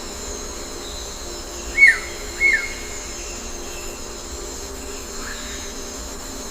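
Bird calling twice, two loud short calls about half a second apart that each slide downward in pitch, with a fainter similar call a few seconds later, over a steady high-pitched ringing background.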